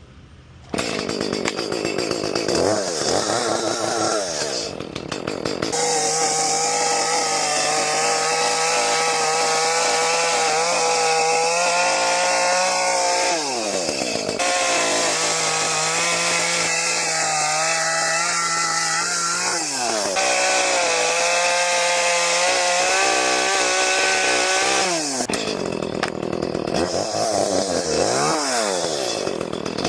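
A small high-revving engine or motor running hard at a steady pitch. Several times the pitch sags and then climbs back, as it does when the machine bogs down under load and recovers.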